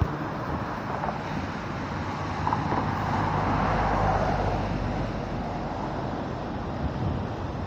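Rough sea surf, with waves breaking and washing onto the shore. One wave swells to its loudest about three to four seconds in. Wind rumbles on the microphone.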